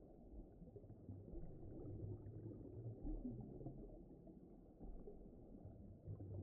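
Faint, muffled underwater rumble: a low wash of noise that swells and ebbs, with nothing bright or high in it.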